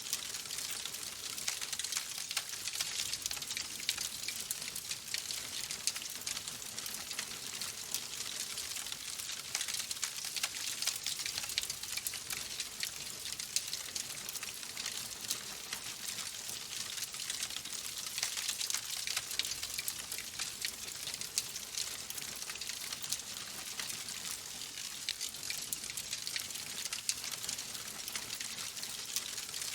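Log fire crackling: a dense, steady run of small pops and snaps over the hiss of burning wood.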